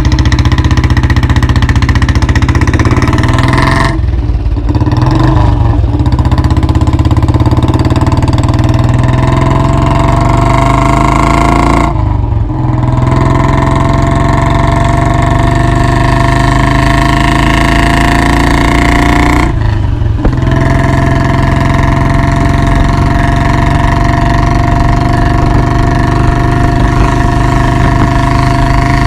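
1990 Royal Enfield Bullet's single-cylinder four-stroke engine running loud and unmuffled, with short drops in sound about four, twelve and twenty seconds in before the note picks up again.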